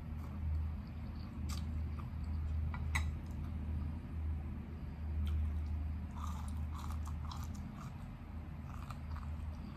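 Close-up chewing and biting on rice noodles and crisp raw leafy-green stalks, with a couple of sharp clicks in the first few seconds and a run of small crunches later on.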